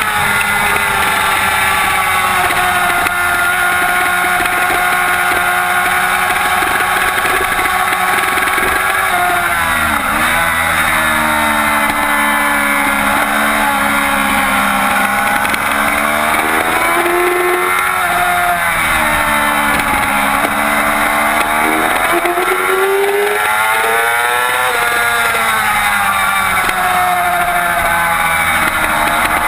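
Yamaha YZF-R6's 599 cc inline-four racing engine at high revs, the pitch climbing through the gears and dropping sharply as the throttle shuts for corners, several times over.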